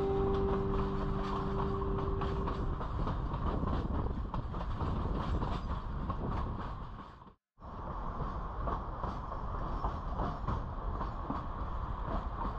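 Durango & Silverton narrow-gauge train on the move: a steady rumble and rattle with frequent clicks of the wheels and cars. The sound cuts out completely for a split second a little past the middle, then carries on unchanged.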